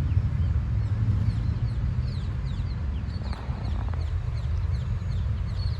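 A flock of small birds chirping, many short falling calls overlapping, over a steady low rumble.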